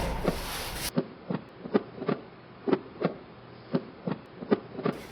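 A run of soft, short knocks, about two a second, over a dull, muffled background, after a louder noise fades out in the first second.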